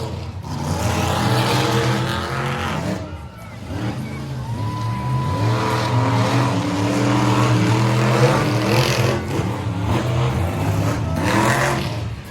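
Monster truck's supercharged V8 engine revving hard under throttle, falling away briefly about three seconds in, then climbing and holding high again.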